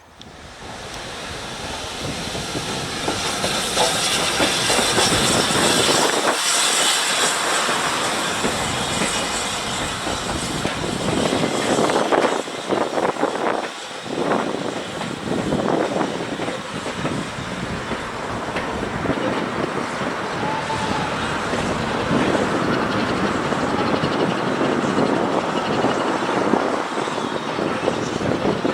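A train running past: a loud, steady rushing noise, with wheels clicking over rail joints for a few seconds around the middle.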